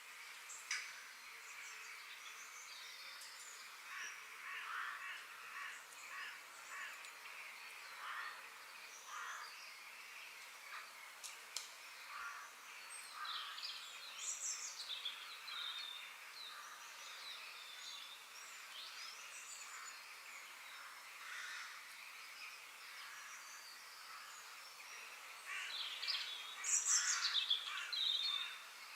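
Several birds chirping and calling in short, scattered notes over a steady background hiss, with a louder, busier flurry of calls near the end.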